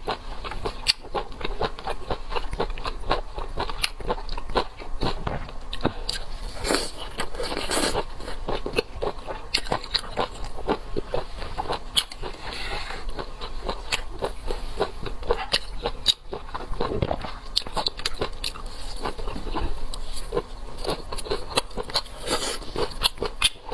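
Close-miked eating of seafood: steady, irregular chewing and biting with wet smacks and crunchy clicks.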